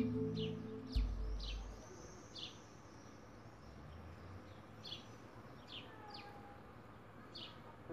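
A bird calling outdoors: a string of short, high, falling chirps repeated at irregular intervals. Background music dies away in the first second or two.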